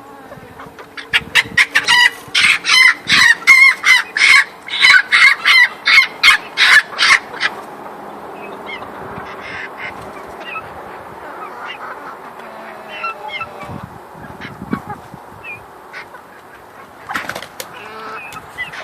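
Domestic fowl calling: a loud run of rapid repeated calls, about three a second, for some six seconds, then fainter scattered calls.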